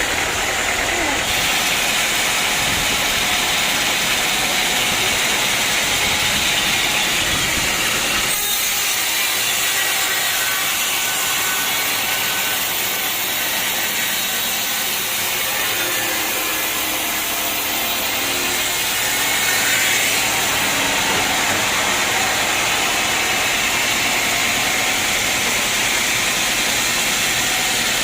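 Sawmill saw cutting through a teak log, a steady, loud hissing whine. About eight seconds in the low rumble drops away and the high sound grows brighter.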